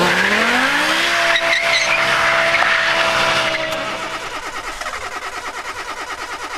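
Car engine revving up and holding high revs while the tyres spin and squeal in a wheelspin getaway. About four seconds in it fades, and a small car engine idles with a fast, even putter.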